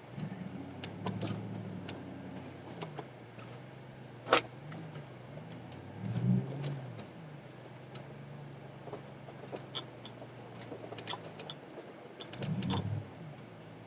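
Vehicle engine heard from inside the cab, idling low and revved briefly three times (near the start, about six seconds in, and near the end) in an attempt at a burnout in mud. A single sharp click about four seconds in, with small ticks and rattles scattered through.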